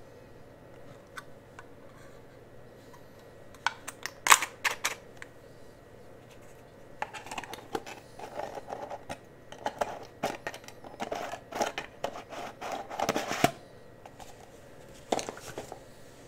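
Close-miked ASMR handling of cosmetic products: a cluster of sharp clicks about four seconds in, then several seconds of rapid crackly clicking and tapping, and one more click near the end.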